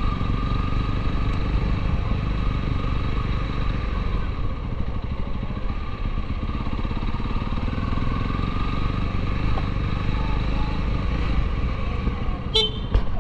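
Honda CRF250L's single-cylinder four-stroke engine, fitted with a custom exhaust, running steadily at low speed in slow traffic. A few sharp clicks sound about a second before the end.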